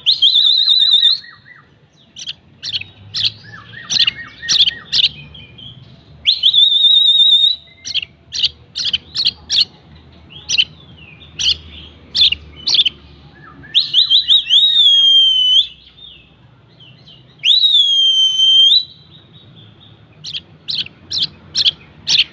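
A songbird singing in loud phrases: long warbled or trilled notes lasting one to two seconds alternate with quick runs of short, sharp chirps.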